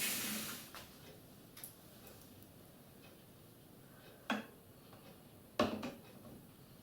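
A steady running sound fades out within the first second, leaving a few scattered sharp clicks and knocks; the two loudest come about four and a half and five and a half seconds in.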